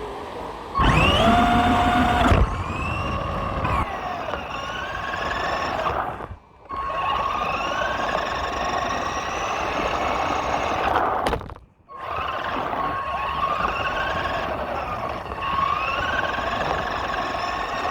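Electric drive motor of a radio-controlled truck whining, its pitch rising again and again as it speeds up. There is a louder burst about a second in, and the sound cuts out briefly twice.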